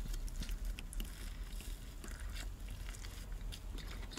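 A person biting into and chewing a double cheeseburger, heard as soft, irregular small clicks of the mouth and food.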